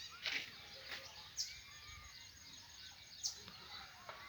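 Small birds calling: a few short, sharp high chirps, about one every second or two, with softer rising-and-falling calls between them, over steady outdoor background noise.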